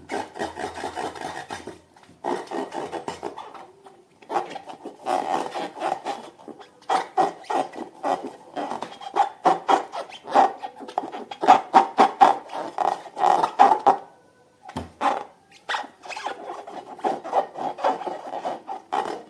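Rubber balloons and slime being rubbed and squeezed by hand: rapid runs of rubbing, squeaky strokes in bouts, with a short pause about two-thirds of the way through.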